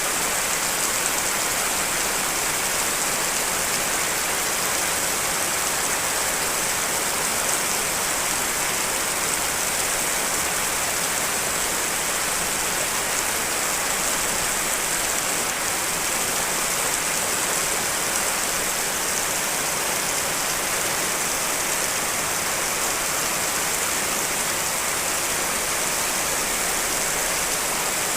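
Steady rain from layered recordings: a dense, even hiss with most of its energy high up and no single drops standing out. It does not change in level throughout.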